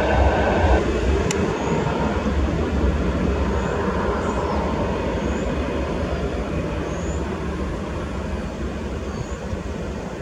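Airbus A319 jet engines at takeoff power: a steady, rumbling roar that slowly fades as the airliner climbs away.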